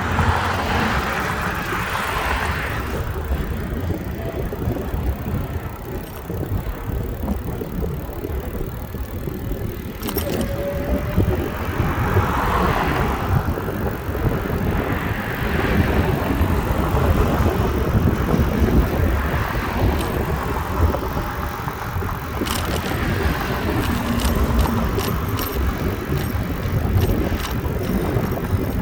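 Riding noise from a moving bicycle: steady wind rumble on the microphone with road noise that swells and fades a few times, and a few faint clicks.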